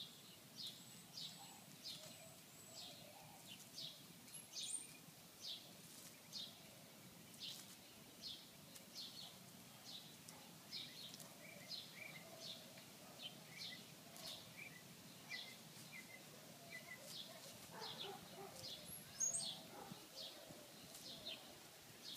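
Faint outdoor ambience with a bird chirping over and over, about one short, falling, high chirp a second. A single sharp tick comes near the end.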